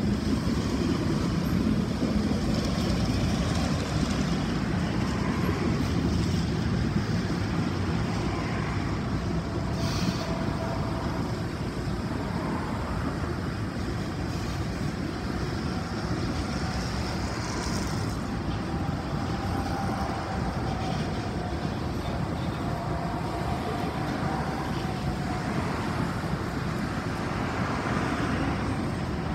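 Freight train of covered hopper cars rolling past: a steady rumble of steel wheels on rail, with faint thin squealing tones coming and going.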